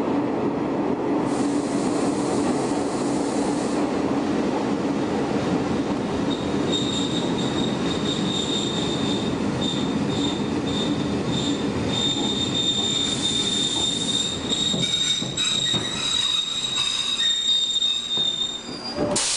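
Shin-Keisei 500-series electric car running with the low hum of its nose-suspended traction motors and gears. About a third of the way in, high-pitched wheel squeal on a curve joins it, intermittent at first and then continuous until just before the end.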